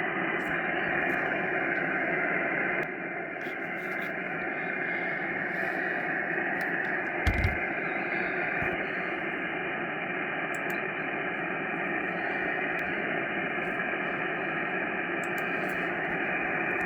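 Steady hiss of band noise from an amateur radio receiver on 6 m single sideband, with no station transmitting. A short knock comes about seven seconds in.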